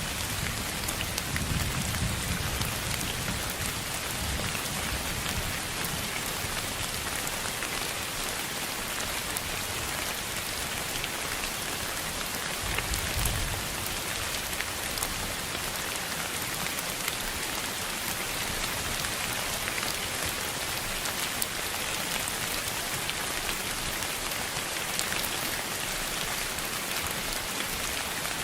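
Steady, dense hiss of rain-like noise, with fine scattered ticks like drops on a surface. Soft low rumbles rise under it in the first few seconds and again about halfway through.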